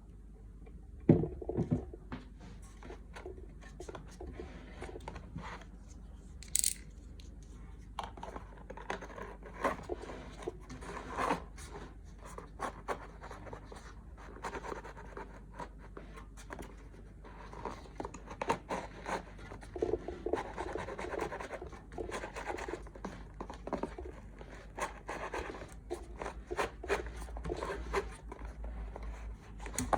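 Hand tools scratching, scraping and clicking against a seized Bomber SW1200 subwoofer as its centre dust cap is worked off, with a sharp knock about a second in and a steady low hum underneath.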